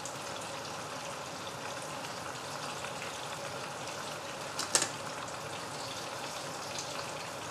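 Chicken-stuffed tahu walik (tofu) frying in hot oil in a pan: a steady sizzle, with one sharp click about five seconds in.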